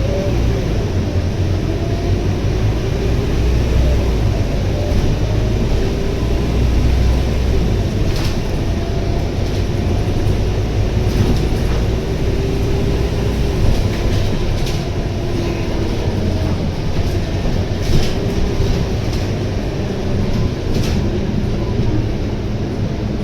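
Scania K230UB single-deck bus running, heard from inside the cabin: the 9.3-litre Scania DC9 engine's steady low rumble under a drivetrain whine that rises and falls slowly with road speed, with a few sharp rattles along the way.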